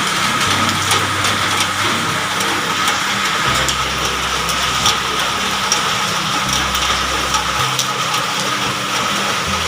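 Steady rain and rushing rainwater in a roof downpipe and filter, with a low hum underneath that steps between pitches every second or two.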